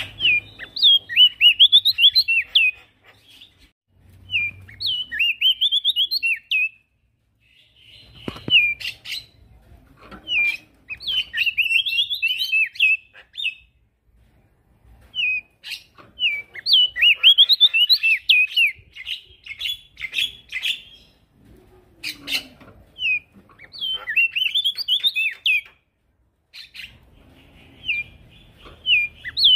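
Male prenjak daun singing in repeated phrases of rapid, jumbled high chirping notes, each a few seconds long with short pauses between, and a few sharp clicks in the gaps.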